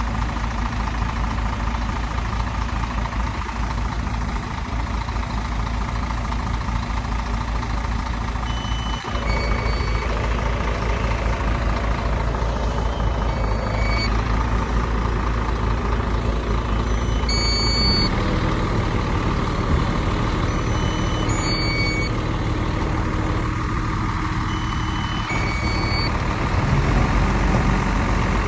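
Heavy diesel earthmoving machinery running steadily. From about nine seconds in, short high reversing-alarm beeps sound every few seconds, and the engine note shifts a couple of times as the machines work.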